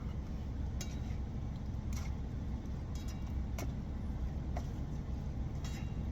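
An idling truck engine hums steadily under about five sharp clinks and knocks. These are kitchen items being moved about while someone hunts for a pot lid.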